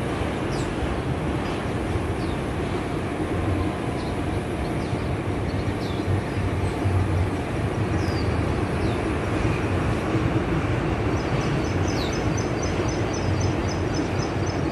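Small wild bird giving short, high, thin falling chirps every second or so over a steady low rumble. About eleven seconds in, a fast run of high notes starts, about four a second.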